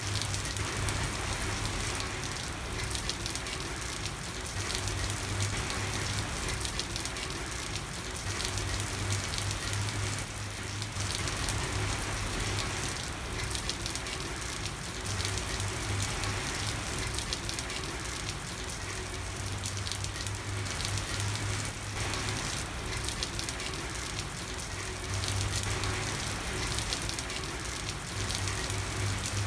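Steady night rain falling on a street: a dense, even patter of drops. A low hum underneath fades in and out every few seconds.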